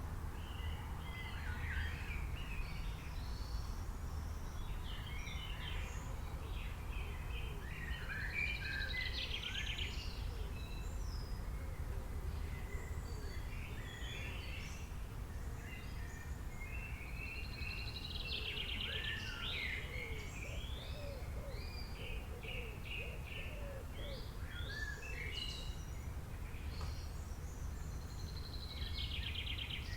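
Wild birds singing and chirping, short varied notes with a fast trilled phrase that comes back about every ten seconds, over a steady low background rumble.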